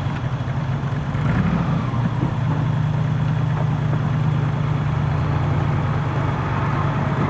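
An engine running steadily at a low, even hum.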